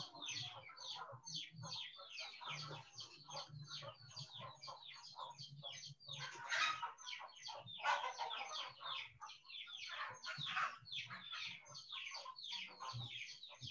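Birds chirping: a dense run of short, high calls, each dropping in pitch, several a second, over a faint low hum.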